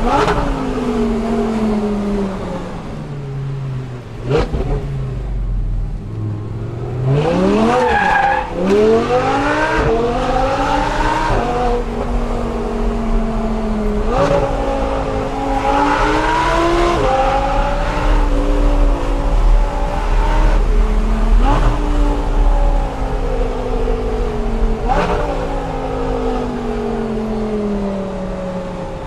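Audi R8 V10 with an aftermarket Per4mance exhaust: the engine note falls as the car comes off the throttle, then sweeps sharply up about eight seconds in. After that the pitch climbs and drops in several steps through gear changes and throttle blips, then falls away near the end.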